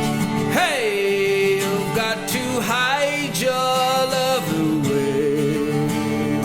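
Seagull 12-string acoustic guitar strummed in steady chords. A male voice sings a long, sliding melody line over it from about half a second in, which ends about two seconds before the close.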